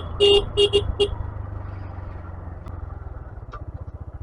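A vehicle horn tooted in five quick short beeps, then a motorcycle engine running with a steady low, even beat that grows louder near the end.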